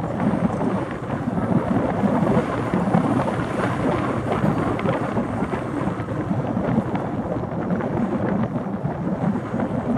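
Steady low rumble of an Airbus A380's jet engines.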